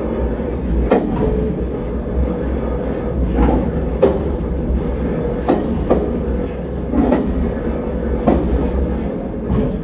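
Rail vehicle rolling slowly on jointed track: a steady low rumble and hum, with the wheels knocking over rail joints every second or so, sometimes in quick pairs.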